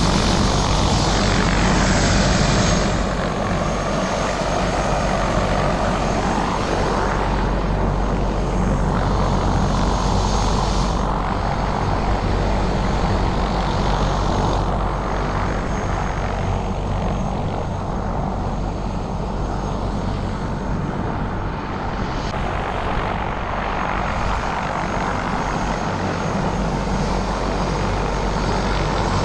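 Helicopter engine and rotors running steadily as a loud continuous drone with a noisy rush over it.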